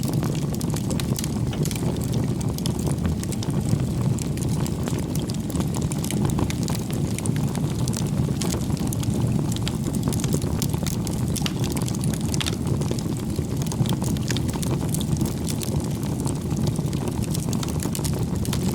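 Wood campfire burning: dense, irregular crackling and popping of the logs over a steady low rumble.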